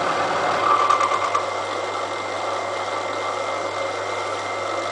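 Small milling machine running, its cutter working on steel railway rail: rough and louder for under a second about a second in, then a steady run with a low hum and a thin high whine.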